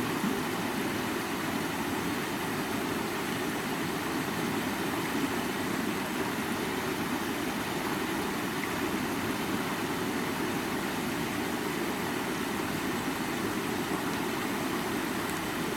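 Stream water running steadily over rocks: an even, unbroken rush.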